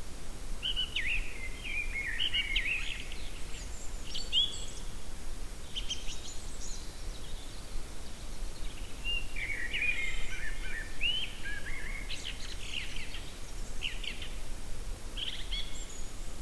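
Songbirds singing outdoors in short, separate phrases of quick chirps and rising notes, several times over, with a steady low rumble of ambient noise underneath.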